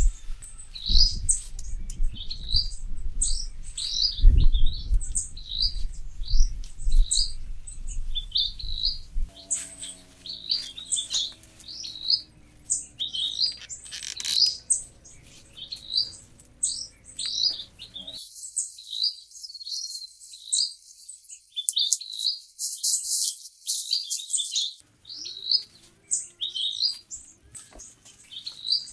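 Small birds chirping in quick, repeated short calls, several a second, with no let-up. Low dull thumps sound under the chirps in the first third.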